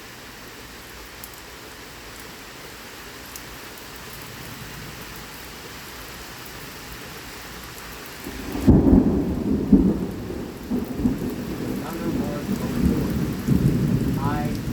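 Steady heavy rain hissing, then about eight and a half seconds in a sudden loud clap of thunder that rumbles on in several swells for the next few seconds.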